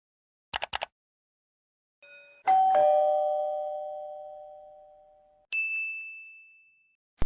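A few quick clicks, then a two-note ding-dong doorbell chime, high note then lower note, ringing out slowly. A single high ding follows, and a loud noisy burst starts at the very end.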